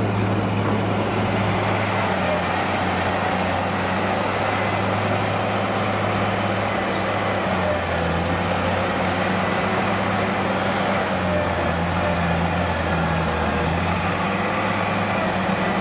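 Heavy diesel engine of a truck or construction machine running steadily, its low hum dipping slightly in pitch a couple of times.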